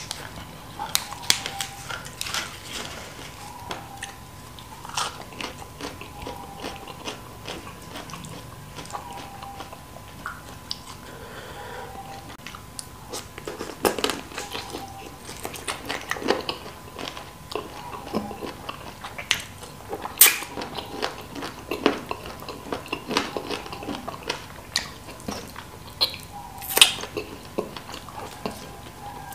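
Close-miked eating of spicy chicken feet and lettuce: biting and chewing, with irregular sharp clicks and wet smacks, a few of them loud.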